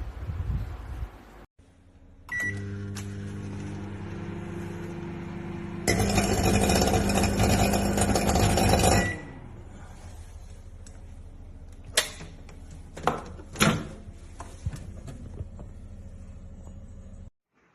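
Microwave oven running with a steady electrical hum. A short beep starts it, and a louder noisy stretch of about three seconds in the middle ends with another beep. A few sharp clicks come near the end.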